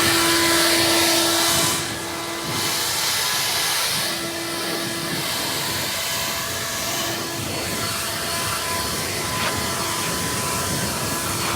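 Leaf blower running, a steady rush of air with a constant hum; it drops briefly about two seconds in, then carries on.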